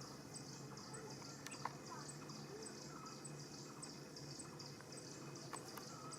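Faint outdoor ambience of an insect chirping in a steady, evenly spaced pulse, with a few brief bird chirps over it.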